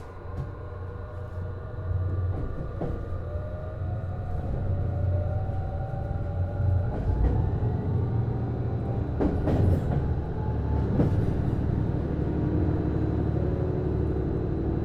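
Cabin running sound of a JR East HB-E210 series hybrid train pulling away: the electric traction drive's whine rises slowly in pitch over a low rumble, growing louder as the train gathers speed. Two sharp knocks from the wheels crossing rail joints come about two thirds of the way through.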